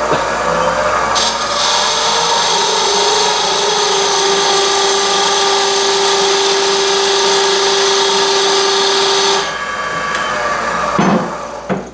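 Skew chisel cutting a tenon into wood spinning on a lathe: a loud, steady hiss of cutting with a steady tone under it, starting about a second in and stopping near the end. A few knocks follow after the cut stops.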